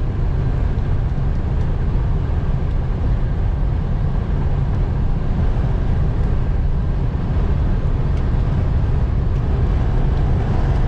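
Steady low rumble of a Freightliner Cascadia semi truck cruising at about 55 mph without a trailer, heard inside the cab: engine and road noise.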